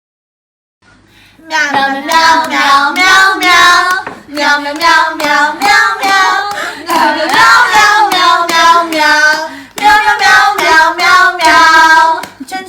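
A high voice singing a wandering melody in short phrases, starting about a second and a half in.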